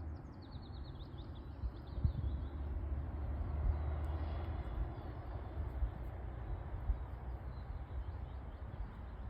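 Outdoor ambience: a bird sings a quick run of short high chirps in the first couple of seconds, with fainter bird calls later, over a steady low rumble.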